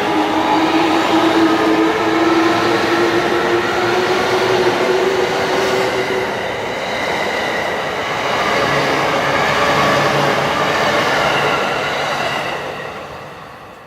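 JR East E233 series electric train pulling away, its motor whine climbing slowly in pitch as it speeds up, over the rumble and clatter of wheels on the rails. The sound fades away near the end.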